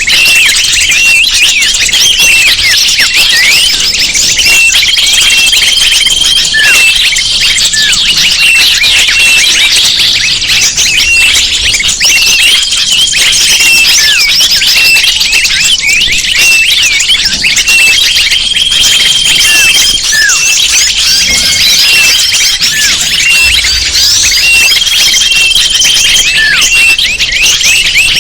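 Bird-lure recording: a dense, loud chorus of many small birds chirping and twittering rapidly at high pitch, with a short steady high whistle repeating about every four to five seconds.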